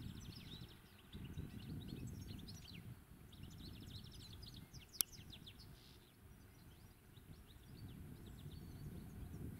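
European goldfinch singing: runs of quick, high twittering notes, over a steady low background rumble. A single sharp click sounds about five seconds in.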